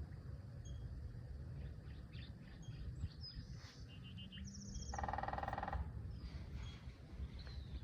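Small birds chirping with short, scattered high calls, and one louder buzzy, rapidly pulsed call about five seconds in, over a low rumble.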